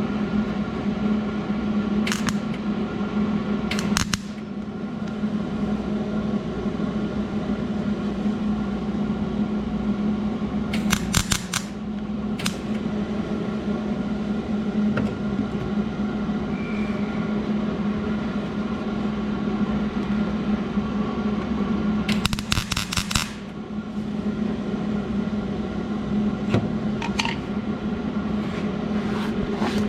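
Welder running on a thin sheet-metal patch in a car body, a steady buzz with crackle and several sharp snaps, briefly breaking off about 23 seconds in.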